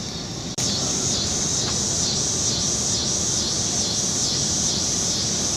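Steady hissing noise that cuts out briefly about half a second in, then returns louder, with its high hiss swelling and fading about twice a second.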